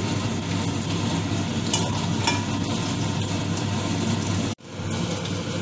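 An egg omelet sizzling as it fries in butter in a pan: a steady hiss with a few sharp crackles, over a steady low hum. It breaks off for an instant near the end, then a similar steady noise picks up again.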